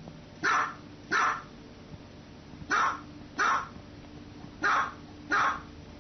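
Small dog barking six times, in three quick pairs about two seconds apart.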